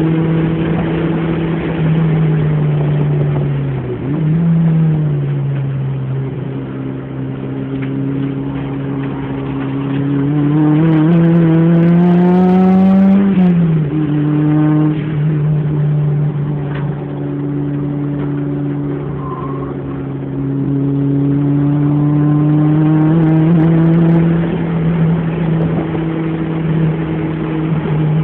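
Car engine heard from inside the cabin at track speed, over wind and road noise. The note mostly holds steady. It climbs from about ten seconds in, drops sharply a little after thirteen seconds, then holds and builds gently again.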